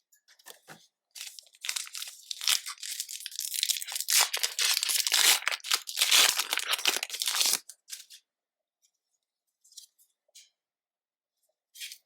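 Foil Pokémon booster pack wrapper crinkling and tearing for several seconds as it is pulled open. It is loudest near the middle and is followed by a few light ticks of handling.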